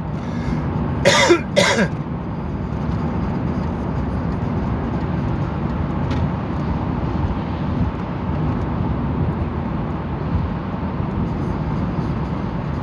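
Steady road and engine noise heard from inside a moving car, with a short burst of voice, like a cough or a word, about a second in.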